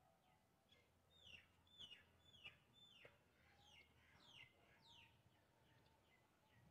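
Faint bird calls: a run of short notes, each falling in pitch, from about one second in to about five seconds in, over an otherwise near-silent background.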